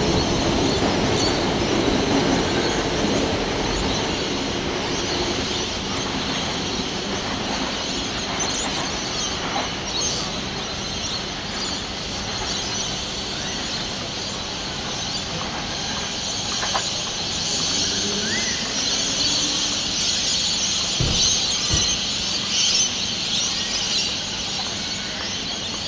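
Sydney Trains double-deck electric suburban train running on the tracks, a steady rumble and hiss of wheels on rail. Near the end come a couple of low thumps.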